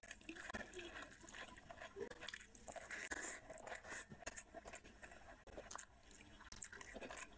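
Close-up mouth sounds of a person eating rice and curry by hand: wet chewing and lip smacking with many small, irregular clicks.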